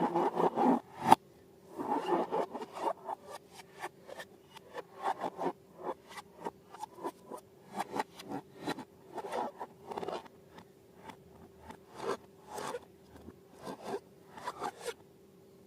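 Hands working balloons and slime: quick, irregular scraping and rubbing noises in short clusters, loudest in the first second, over a faint steady hum.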